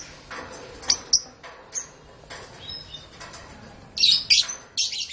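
Domestic canaries chirping: short, high calls scattered throughout, with the loudest flurry about four seconds in.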